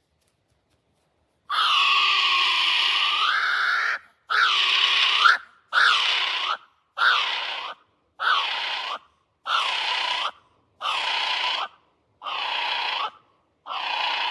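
Kiwi calling: a series of nine shrill, harsh cries. The first is long, about two and a half seconds, and the rest are shorter and come about every second and a half. Each cry rises at its end.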